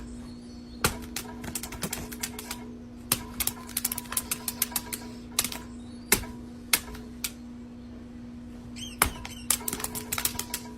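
Irregular sharp clicks and taps, some in quick clusters, over a steady low hum, with a short high squeak about nine seconds in.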